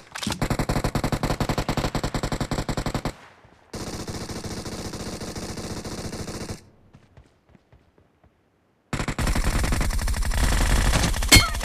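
Automatic gunfire in three long bursts, about ten shots a second. A gap of a couple of seconds comes before the last burst.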